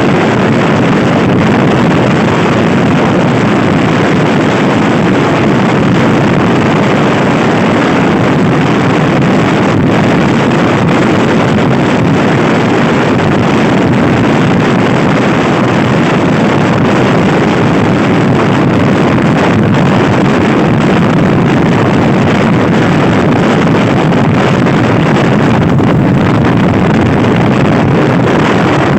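Loud, steady wind buffeting on the microphone of a Honda Scoopy i scooter ridden at speed, with the scooter's engine running underneath.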